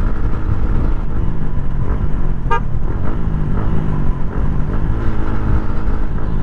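Yamaha Sniper 150's single-cylinder four-stroke engine running at road speed, with wind rushing over the microphone. A vehicle horn gives one short toot about two and a half seconds in.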